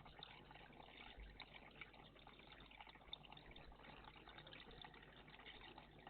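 Faint, steady trickle of running water in a garden bird bath.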